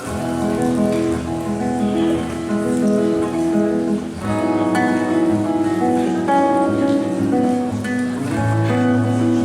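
Acoustic rock band playing an instrumental passage with no vocals, led by strummed acoustic guitar.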